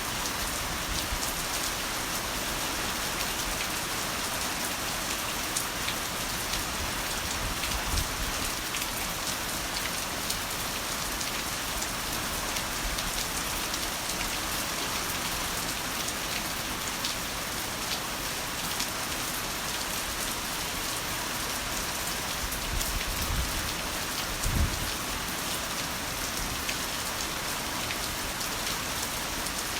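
Heavy rain pouring steadily, a dense hiss of drops hitting a surface. Brief low rumbles rise under it about a third of the way in and again near the end.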